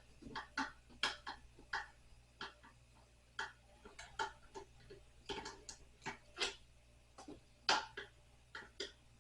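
Screwdriver working screws out of a nightstand: a run of irregular light clicks and knocks, one or two a second, with no motor sound.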